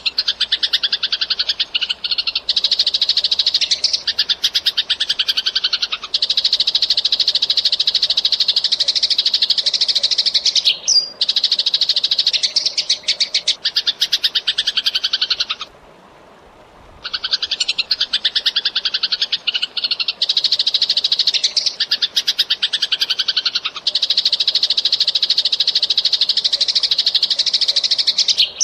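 Eurasian tree sparrows chirping in a dense, very rapid run of high chirps, stopping for about a second just past the middle and then starting again.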